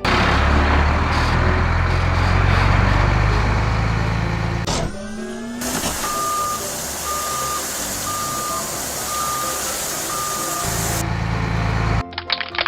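Cartoon truck engine sound effect running steadily for about five seconds. A short rising tone follows, then a truck's reversing alarm beeps in a steady run over a quieter engine.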